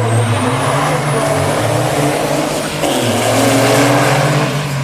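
Diesel drag-racing trucks running hard: a loud, steady low engine drone with a roar over it. The engine note dips briefly about three seconds in and then picks up again, a little louder.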